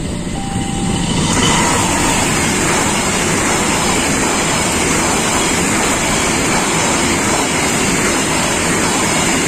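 Diesel-hauled passenger train passing close by at a level crossing: a loud, steady rumble and rattle of steel wheels on the rails. It swells about a second in as the train reaches the crossing.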